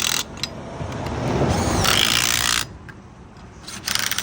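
Socket tools on a half-inch drive working the lug nuts of a trailer wheel during a flat-tire change. There are two bursts of mechanical noise that each stop abruptly, the first and longer one ending about two and a half seconds in.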